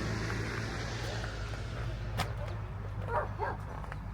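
A dog barks twice in quick succession about three seconds in. Under it is a low steady hum that fades out in the first second or so.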